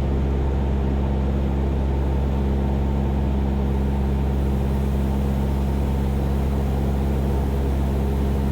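Cessna 172's piston engine and propeller running at a steady cruise power in flight, a constant drone heard from inside the cabin.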